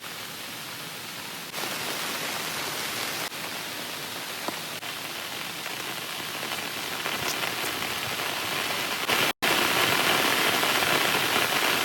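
Heavy rain falling steadily, a dense hiss that gets louder in sudden steps, with a brief drop to silence about nine seconds in.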